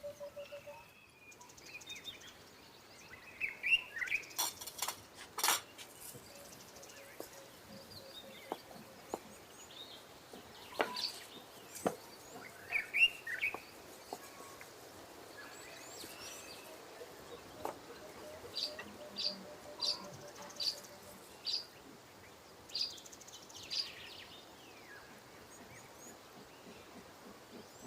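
Small birds chirping now and then, including a run of about six short even chirps near the end, with a couple of sharp clicks or knocks a few seconds in.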